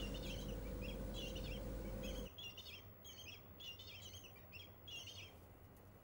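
A small bird chirping in short, high, repeated phrases, about two a second, fading out near the end.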